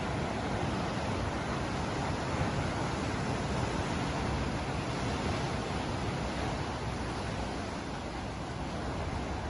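Ocean waves washing onto shore: a steady, continuous rushing of surf that eases slightly toward the end.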